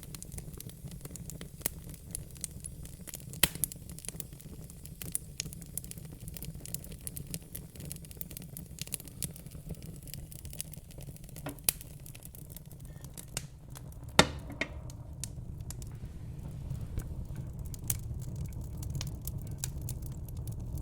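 Fire crackling: irregular sharp snaps and pops over a steady low rumble, the loudest pop about fourteen seconds in.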